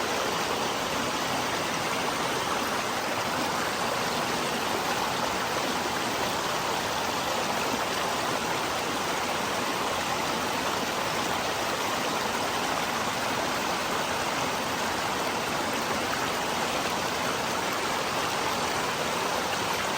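Creek water rushing, a steady even noise that does not change.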